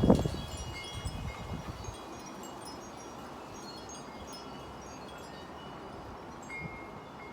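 Wind gusting and buffeting the microphone, loudest right at the start and easing off after about two seconds into a steady low rush. Light, high tinkling tones sound on and off throughout.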